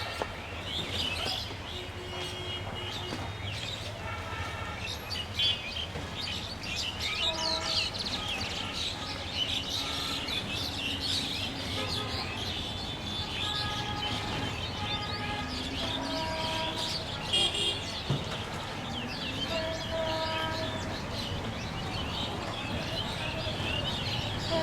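Many small birds chirping and twittering without a break, over a steady low background hum, with short pitched tones now and then.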